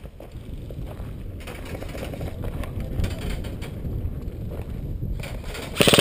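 Low rustling and handling noise from the player's movement, then near the end an airsoft rifle opens up on full auto with a rapid, evenly spaced string of shots.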